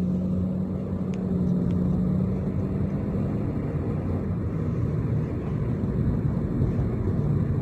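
Motor vehicle engine running: a steady low rumble with a droning hum that fades out about three and a half seconds in.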